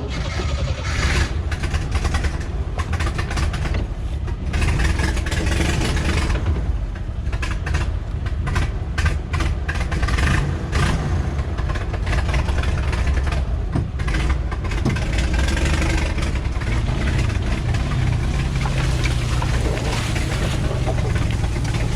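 Jeep CJ7's engine, just restarted after a stall, running and revving as the Jeep crawls through brush. Sharp scrapes and snaps of branches against the vehicle come throughout.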